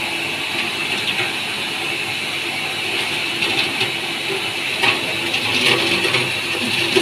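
Tube ice machine running with a steady mechanical hum and hiss, with a few short clicks and clatters from about halfway on.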